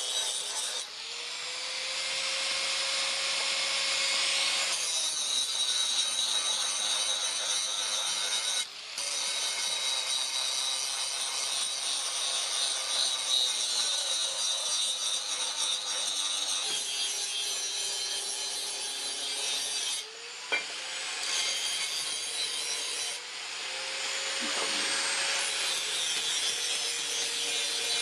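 Power grinder working the steel of a truck leaf spring: a continuous abrasive hiss with a steady whine, broken off briefly a few times.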